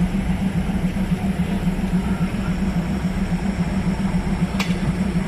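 Diesel railcar engine idling with a steady, pulsing hum, and a single sharp click about four and a half seconds in.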